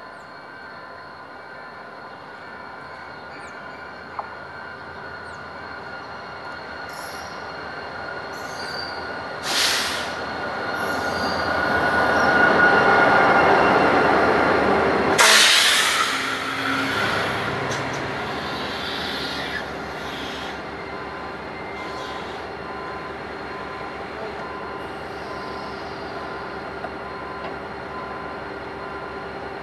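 Materfer MTF-3300 diesel locomotive hauling passenger coaches draws into a station and passes close by, growing louder to a peak about halfway through, with a brief loud hiss as it goes by. The coaches then roll past more slowly as the train brakes toward a stop.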